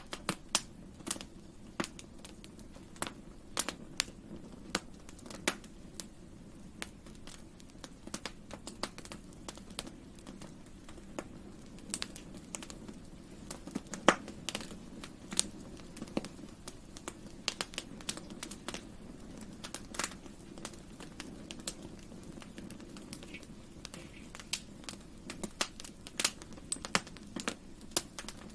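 Wood fire crackling and popping: irregular sharp snaps, a few louder pops among them, over a steady low rumble of flames.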